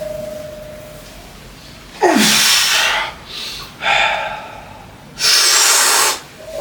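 A person breathing hard during a weightlifting set, with four loud, forceful breaths. The first has a short voiced grunt that falls in pitch. A clear ringing tone fades out in the first second.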